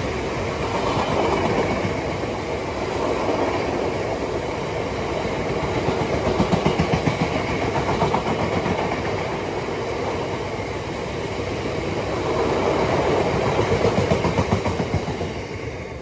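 Freight train's open box wagons passing, their wheels rumbling and clattering over the rails in quick rhythmic groups. The sound fades near the end as the last wagon goes by.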